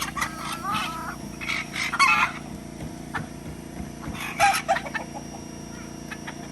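Domestic fowl calling in short, pitched squawks and clucks, loudest about two seconds in and again about four and a half seconds in, over a steady low hum.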